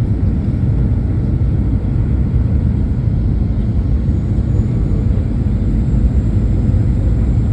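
Steady low rumble of a Boeing 737 airliner heard from inside the passenger cabin in flight: engine and airflow noise, unchanging throughout, with a faint steady hum on top.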